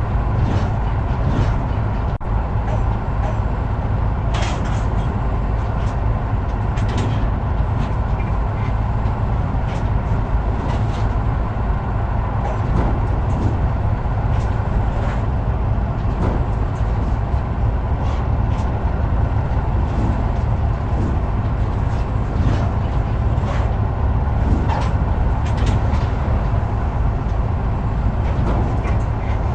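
Truck on the move: a steady low engine and road rumble, with frequent short rattles and clicks throughout.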